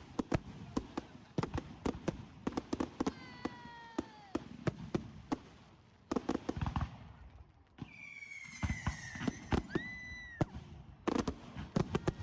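Fireworks going off in quick succession, a rapid run of sharp cracks and bangs. A whistling firework falls in pitch about three seconds in. A longer whistle, falling then holding steady, follows past the middle before the crackling picks up again.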